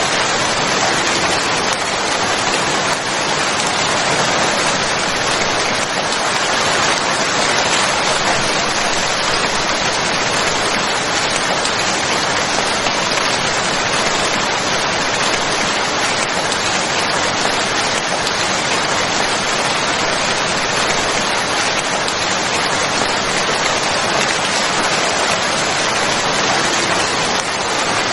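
Steady rain falling on surfaces, a dense even hiss of many drops without changes.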